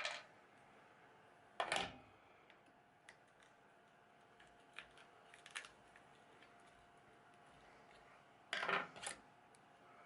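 Metal tools and parts being handled on a shop bench: a few short scrapes of about half a second each, near the start, around two seconds in and near the end, with light clicks and taps between, over a faint steady hum.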